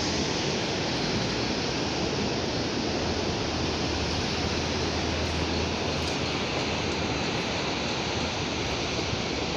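Sea surf washing onto the shore in a steady rush, with a low rumble that swells a little midway.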